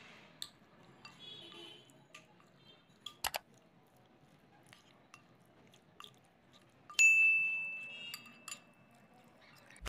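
Kitchenware clinking as ingredients are handled: a few light clicks, two close together about three seconds in, then about seven seconds in a bowl is struck sharply and rings with a clear tone that dies away over a second and a half.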